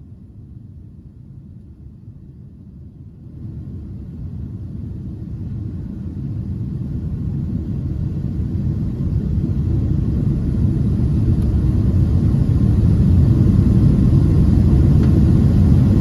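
Low rumble of a small airliner's takeoff roll, heard from inside the cabin: engines and runway rumble growing steadily louder, filling out higher in pitch from about three seconds in.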